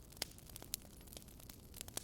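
Wood fire crackling in a fireplace: irregular sharp pops and snaps, a couple of them louder, over a faint low rumble.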